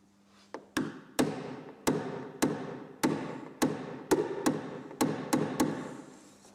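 Dent-repair tools striking a car body panel: about a dozen sharp metallic taps, roughly two a second and unevenly spaced, each ringing briefly. This is paintless dent repair on a hail dent.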